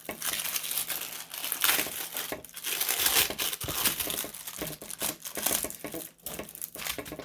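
Crinkling and crackling of a sticky diamond-painting canvas and its plastic covering as they are peeled and pulled free from where the adhesive has stuck.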